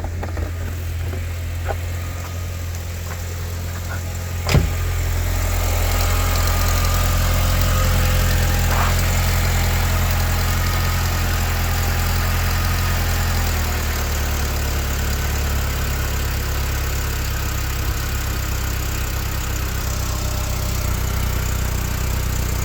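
2005 Volkswagen Beetle Turbo's turbocharged four-cylinder engine on a cold start: a sharp click and a jump in level about four and a half seconds in, then a steady cold idle. The low engine note changes a step about fourteen seconds in.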